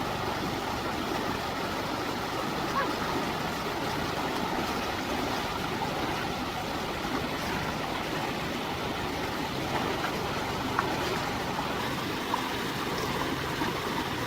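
Steady rush of flowing stream water, with a few faint knocks or splashes.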